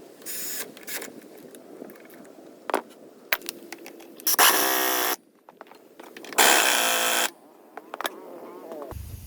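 Impact wrench run in two short bursts of under a second each, with a shorter burst near the start and metal tool clinks between: tightening nuts while the rear axle goes back together.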